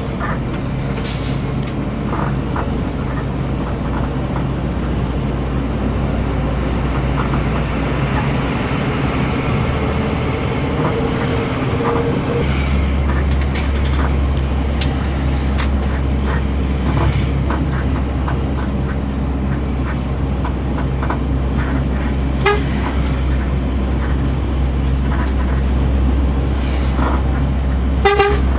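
Intercity bus engine and road noise, a steady low drone whose engine note shifts about twelve seconds in, with a short horn toot near the end.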